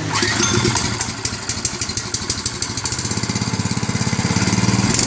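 Electric transfer pump (a water pump used for waste oil) starting and running with a rapid pulsing rattle that comes faster over the few seconds. It is still drawing air before the oil has come up the suction side.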